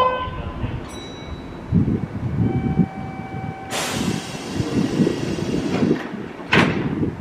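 Kintetsu commuter train drawing to a stop at the platform: low running rumble, a short steady squeal near the middle, then a long hiss of compressed air and a second short hiss near the end, the air brakes venting as it halts.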